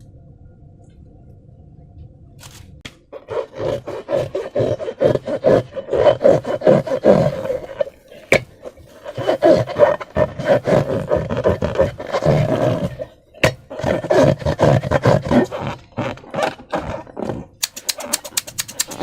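Slime being squished and worked by hand: a long run of loud, wet squelching and crackling that starts about three seconds in, pauses briefly twice, and ends in a quick string of sharp clicks.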